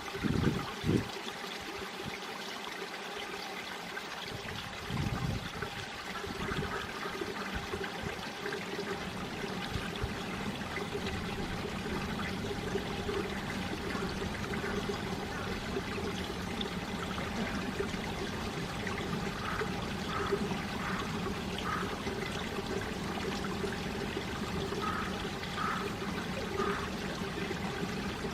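Mountain valley stream flowing over rocks: a steady trickling, gurgling rush of water, with a few heavier low splashes in the first five seconds.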